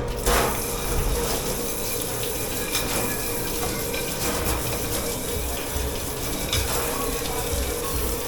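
Water running steadily from a tap or spray into a sink, an even rushing noise with a faint steady hum underneath.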